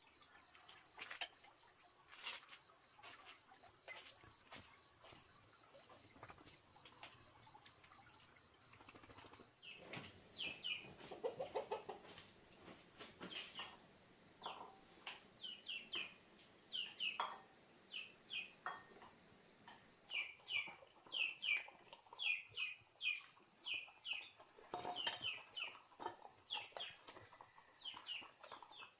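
Chickens clucking, with many short high chirping calls from about ten seconds in, over a steady high insect drone.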